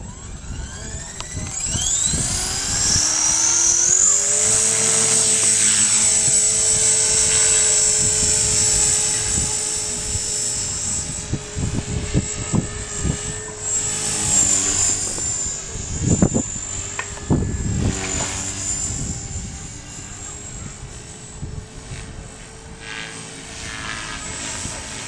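Trex 450-class electric RC helicopter spooling up: the motor and rotor whine rises in pitch over the first few seconds, then holds steady at flying speed. Two short thumps come about two-thirds of the way in, and the pitch dips a little partway through.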